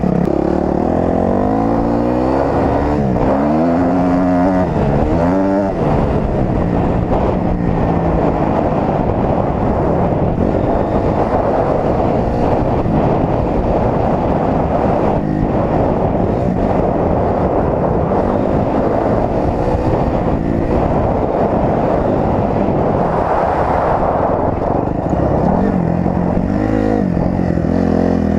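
Dirt bike engine running under way, its pitch rising and falling as the throttle is worked, over a steady rushing noise.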